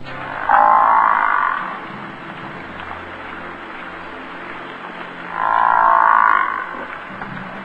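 A frog calling: two drawn-out croaking calls about a second long, the second about four seconds after the first, over a steady background hiss.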